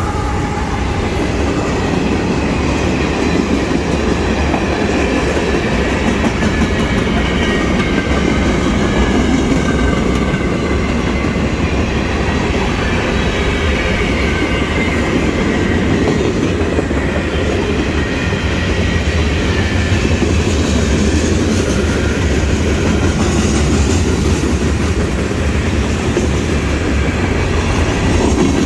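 Mixed freight train's cars rolling past close by. A steady, loud rumble of steel wheels on the rails with a clickety-clack.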